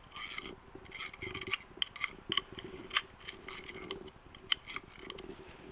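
Scattered light clicks and short scratching sounds of debris being picked and cleaned out of a motorcycle oil strainer, over a faint steady hum.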